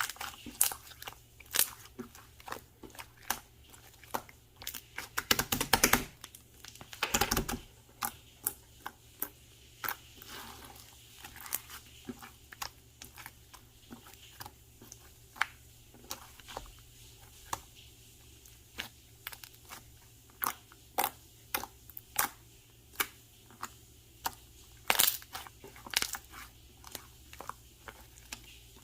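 Slime being squeezed and pressed by hand, giving a steady run of sharp clicking pops, with two longer, louder bursts about five and seven seconds in.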